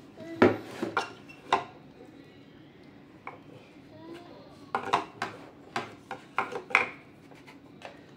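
Clinks and knocks of small metal parts and tools being handled and set down on a work surface: a few sharp strikes near the start, then a cluster of quicker clicks in the second half.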